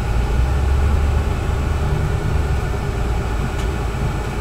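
Steady low rumble of a running vehicle, with a faint click about three and a half seconds in.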